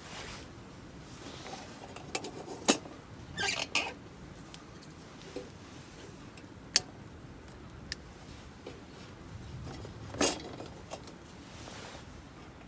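Small hard objects being handled and set down: a handful of sharp clicks and knocks, the sharpest about a third and half of the way through, with brief rustling clatters in between.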